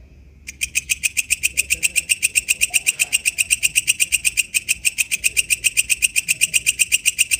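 Walang kecek bush cricket calling: a rapid, steady train of sharp, high ticking pulses, about eight a second, that starts loudly about half a second in.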